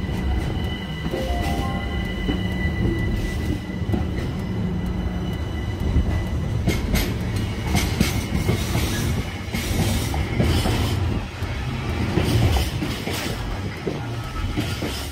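London Overground Class 378 Electrostar electric multiple unit running past along the platform, with a steady rumble of wheels on rail. A steady high whine sounds over the first few seconds, and a few sharp clicks come near the middle.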